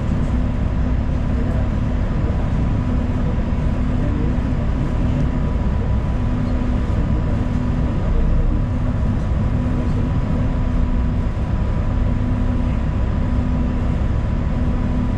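Interior noise of a city transit bus in motion: a steady low engine and road rumble, with a thin steady whine above it.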